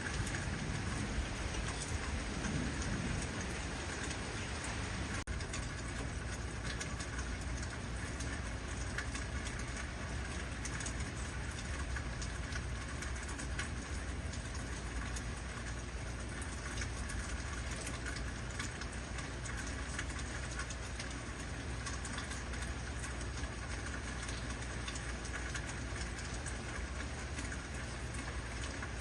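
Heavy rain falling steadily, a dense even patter of drops with a low rumble underneath.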